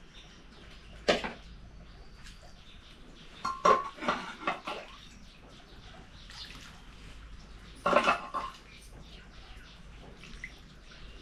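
Metal dishes and utensils clinking and knocking: a single knock about a second in, a cluster of clatters with a short ring around four seconds, and another clatter near eight seconds.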